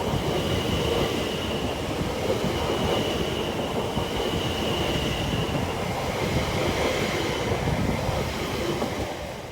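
A double Class 720 electric multiple unit running past on the rails as it crosses over points onto another track, with a thin, steady high wheel squeal above the running noise. The sound falls away near the end as the train moves off.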